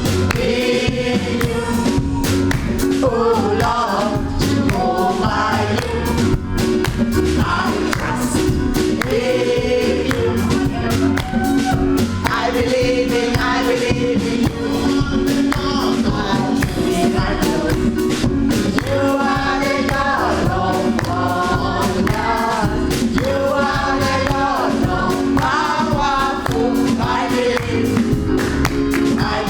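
Gospel choir singing with band accompaniment: a steady drum beat under held chords.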